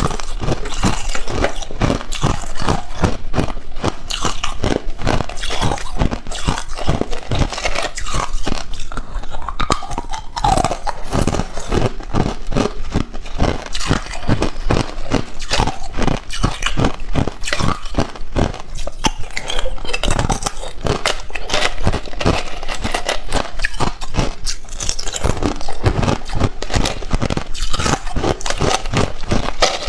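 Hard ice cubes being bitten and chewed close to the microphone: a rapid, continuous run of sharp crunches.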